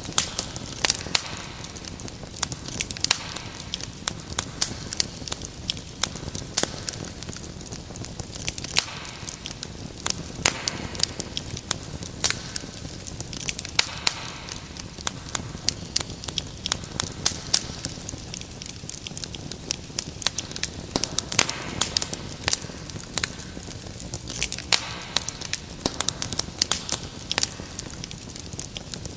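Wood fire crackling in a fireplace: frequent irregular sharp pops and snaps over a soft steady hiss of flames.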